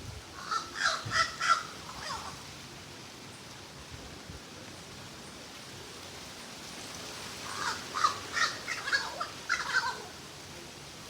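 A bird giving harsh, crow-like calls in two quick bouts of several short notes each, one near the start and one about three quarters of the way through.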